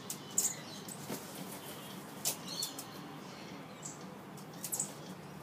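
Birds fluttering and shuffling about, with short scratchy rustles of wings about half a second in, a little after two seconds, and near the end.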